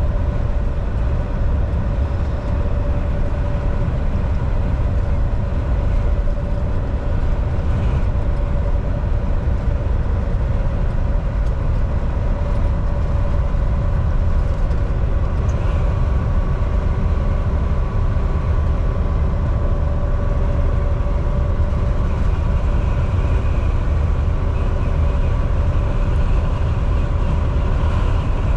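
Volvo VNL 760 semi truck cruising at a steady speed: a constant low engine and road rumble with a steady drivetrain hum on top.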